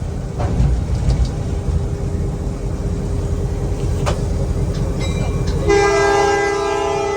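Locomotive engine rumbling, heard from inside the cab as the train gets under way, with a few sharp clicks; about five and a half seconds in the locomotive's air horn sounds a loud, steady multi-note chord and holds it to the end.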